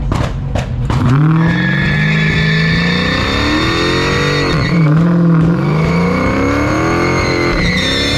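Car engine revving up and down again and again while the tires squeal steadily, as in a burnout. A few sharp pops come in the first second.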